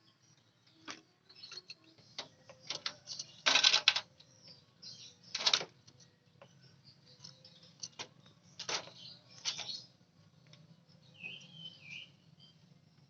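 A small bird bathing: short bursts of wing-fluttering and splashing, the loudest about three and a half seconds in, then a few brief chirps near the end.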